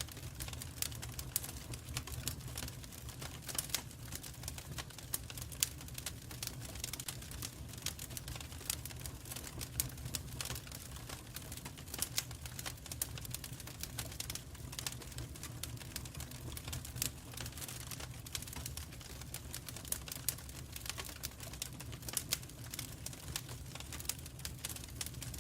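Wood fire crackling in a fireplace: a dense run of irregular sharp pops and snaps over a low, steady rumble.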